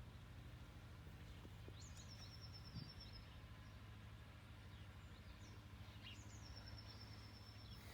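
Near silence with a faint low hum, broken twice by a small songbird's high, thin call, each a quick rising note running into a level trill, about four seconds apart.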